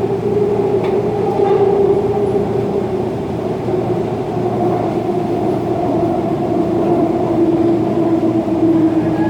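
Subway train running with a steady rumble and a whine from its traction motors, the whine slowly falling in pitch as the train slows. A brief click about a second in.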